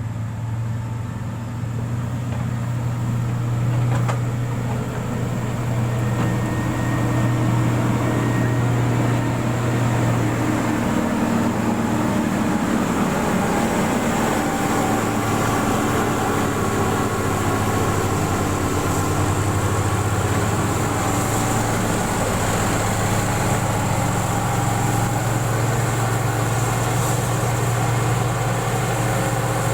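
Diesel engine of a motor grader running steadily with a deep hum, its pitch shifting for a few seconds around the middle as the load or throttle changes.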